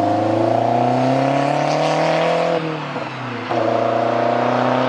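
Car engine accelerating hard through the gears. Its pitch climbs steadily, breaks off for an upshift about three seconds in, then climbs again in the next gear.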